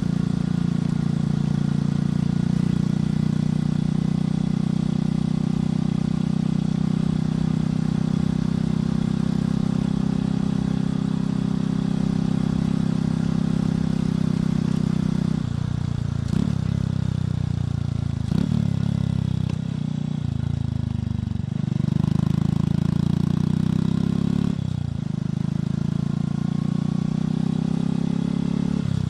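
Motorcycle engine and exhaust under way, holding a steady pitch for about the first half. After that the revs drop and climb again several times, as with gear changes and slowing and speeding up.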